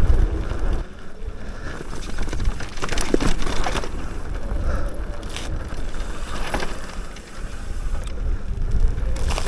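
Electric mountain bike riding down a dirt singletrack: tyres crunching over dirt and rocks and the bike rattling over bumps, with a few sharp knocks around three seconds in, under wind rumbling on the microphone.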